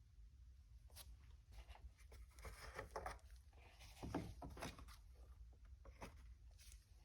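Faint handling noise: scattered light clicks and rustles over a steady low hum, loudest around the middle.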